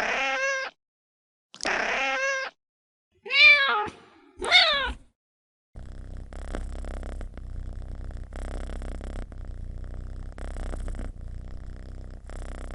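A domestic cat meows four times, the last two calls bending up and down in pitch. It then settles into a steady low purr that swells and fades with each breath.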